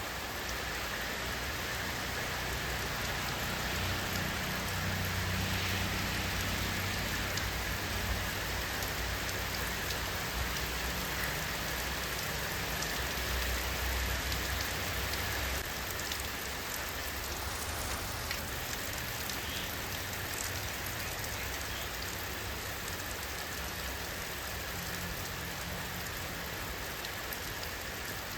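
Steady rainfall, with many separate drops heard as fine ticks over the wash of rain. A low rumble sits underneath for a stretch through the middle.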